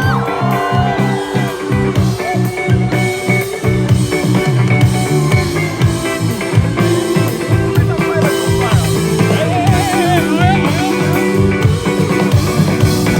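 Live rock band playing an instrumental passage: a guitar lead with bent and wavering notes over steady chords, bass and a drum kit.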